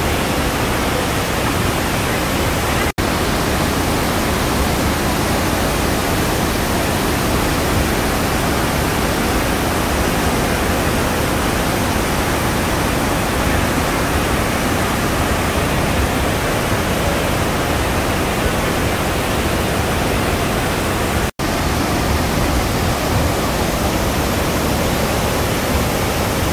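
Steady, loud rush of a large waterfall, Iguazu Falls, heard close up, cutting out for an instant twice, about three seconds in and again about eighteen seconds later.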